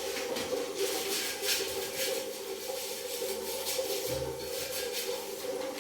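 Toilet brush scrubbing the inside of a toilet bowl in quick, repeated strokes, over a steady background hum.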